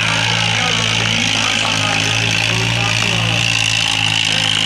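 Tractor engine running steadily, with voices in the background.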